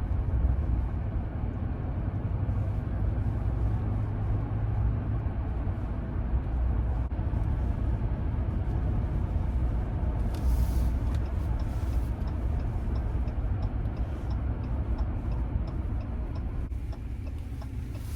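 Steady low rumble of a Ram pickup truck heard from inside the cab while driving, with a brief rush of noise about ten seconds in.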